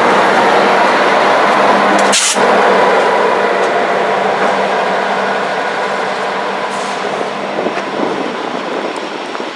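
A train going by, its rumble and running noise steady at first and then slowly fading as it moves away. There is a brief sharp noise about two seconds in.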